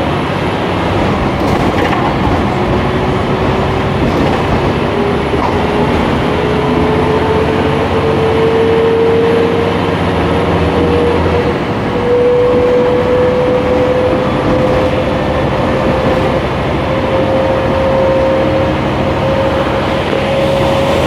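Scania K310IA bus with a ZF automatic gearbox under way: engine and road noise with a whine rising slowly in pitch as it gathers speed. The low engine hum changes about halfway through.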